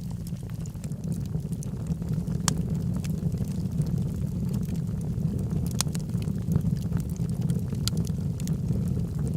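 Wood logs burning in a fireplace: a steady low rumble of flame with scattered sharp crackles and pops, a few of them louder.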